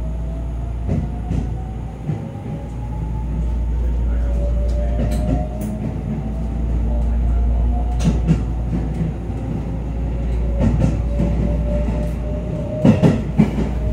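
JR 281 series Haruka limited express heard from inside the carriage as it pulls away and accelerates: a low rumble with a motor whine slowly rising in pitch, and a few sharp clacks near the end.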